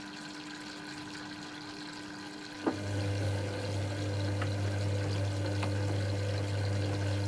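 Dyson Contrarotator CR01 washing machine with water running through it. About two and a half seconds in there is a click, and a steady low electrical hum starts up and keeps going as the machine's pump or valve switches on.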